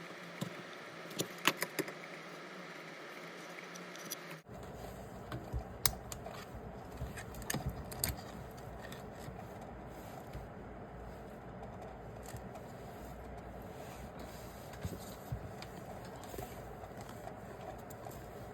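Scattered clicks, small metallic rattles and scrapes of small parts and tools being handled on a workbench, the busiest stretch in the first half, over steady room hiss that changes abruptly about four seconds in.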